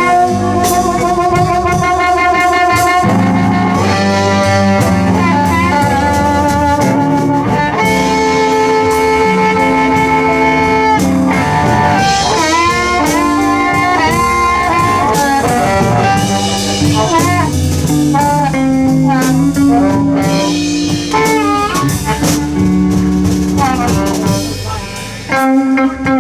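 Live electric blues band playing an instrumental break: a lead line of long held and bent notes, in the manner of a blues harmonica solo, over guitar, bass and a steady drum beat.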